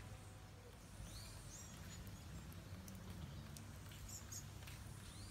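Faint outdoor ambience with a few short, high bird chirps over a steady low hum.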